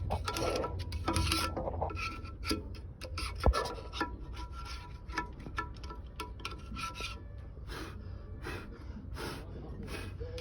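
Irregular scraping and rubbing strokes from hand tools at work, with one sharp knock about three and a half seconds in.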